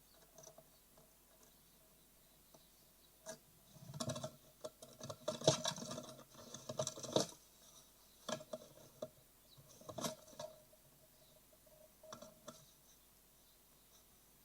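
Great tit nestlings scrambling about in their nest box: bursts of scratching and tapping, busiest in the middle, over a faint steady hum.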